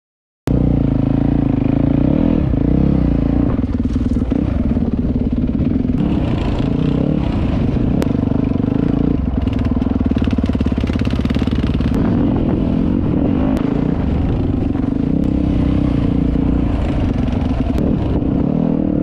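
Dirt bike engine running hard and revving up and down through the gears while riding, cutting in suddenly about half a second in.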